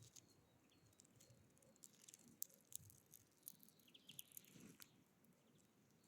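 Faint irregular clicks and taps of small birds pecking and hopping at a feeder, with a few faint, short, high bird notes.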